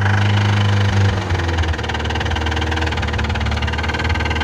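VAZ-2106 engine running just after starting from a long lay-up, with a knock in it; the revs drop about a second and a half in and it settles to a steady idle. The owner regards the engine as worn out.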